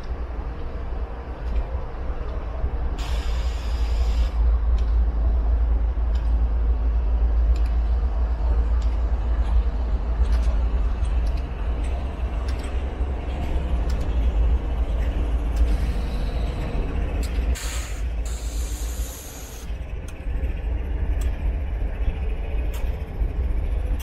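BNSF freight train rolling past: a steady heavy rumble and rattle of cars on the rails, with scattered clicks and two brief hissing bursts, about three seconds in and again near eighteen seconds.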